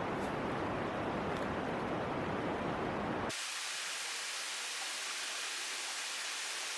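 Steady rush of river water. A little over three seconds in it cuts abruptly to a thinner, higher hiss.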